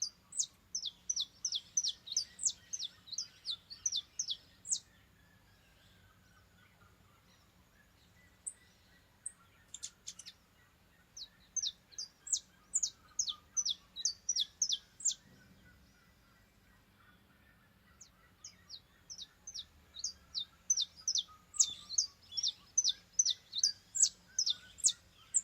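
Saffron finch (canário-da-terra) singing in three bouts of quick, sharp, high notes, several notes a second, each bout lasting a few seconds with pauses between. A fainter, lower series of slowly falling notes runs behind.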